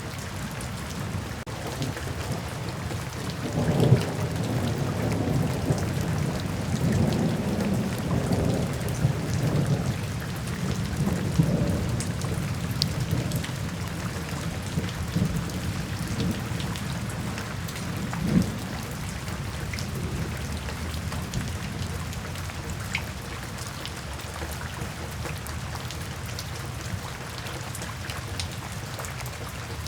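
Steady rain falling, with soft low thunder rolling in about three seconds in, swelling and fading over the next ten seconds or so. A last brief rumble comes a little later before the rain continues alone.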